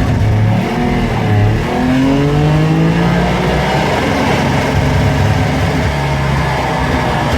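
1958 DKW Auto Union 3=6's 900 cc three-cylinder two-stroke engine pulling away under acceleration, heard from inside the car. About one and a half to two seconds in, the revs jump up, and the pitch keeps climbing before it holds high.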